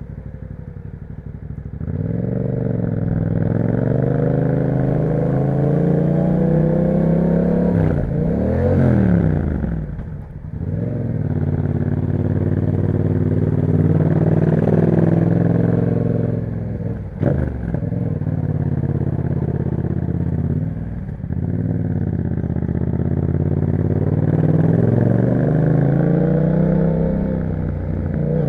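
A Yamaha MT-07's 689 cc parallel-twin engine running through an Akrapovic exhaust as the bike rides. The revs climb in long rising pulls, then drop sharply at gear changes several times. The engine is quieter for the first couple of seconds before the first pull.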